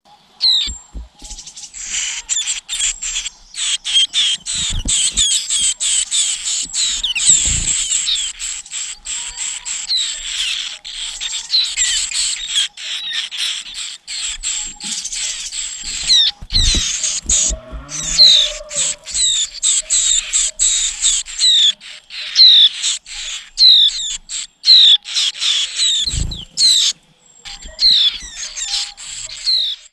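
White-eyes at the nest: dense, rapid high-pitched chirping with many short falling notes, the begging and calling of chicks being fed by a parent.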